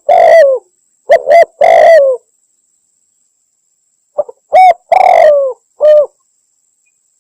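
Spotted dove cooing: two phrases of short coos, each ending in a longer coo that falls in pitch, with a pause of about two seconds between them. A lure call that the title says is a female calling a male.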